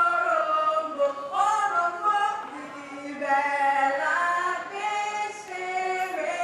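A group of voices singing a Nigerian lullaby unaccompanied, in slow held notes that change pitch about once a second.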